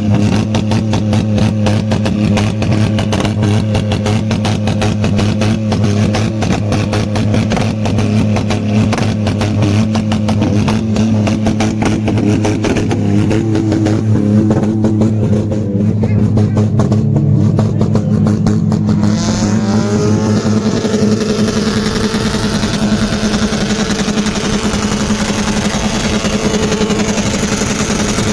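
A loud car engine running with a rapid, even pulse, then revved, its pitch rising, about two-thirds of the way through.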